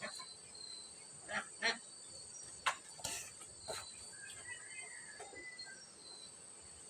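Insects chirring steadily in two high, continuous tones, with a few short knocks and rustles scattered through.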